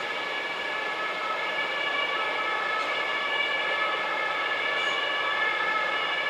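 Train wheels squealing on the rails as a train passes: several high steady tones at once over the running rumble, a little louder after the first second.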